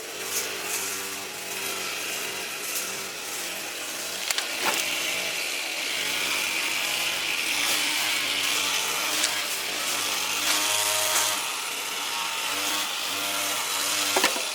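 A motorised cutting tool running steadily under load, cutting through material, with a few sharp clicks along the way.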